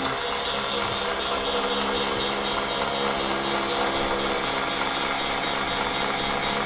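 Small battery-powered motor of a toy doll washing machine switching on and running steadily, a whirring hum with the water and doll clothes churning and bubbling in its tub.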